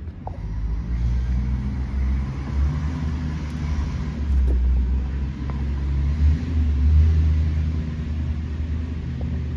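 Large tool truck's engine running with a steady low rumble.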